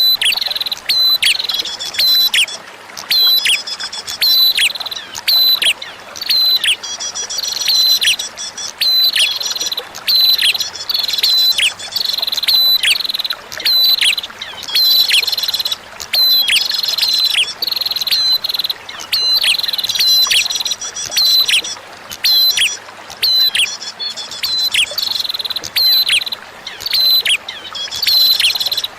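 Prenjak (prinia) song played for bird training: a run of sharp, downward-sweeping chip notes, about one to two a second, alternating with high, fast trills.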